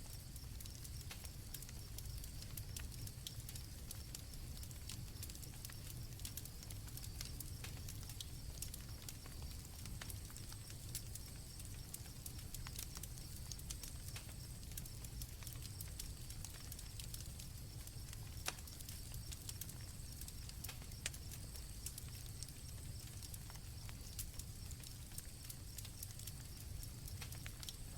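Campfire crackling with scattered sharp pops, over a steady high chirring of crickets and a low rumble.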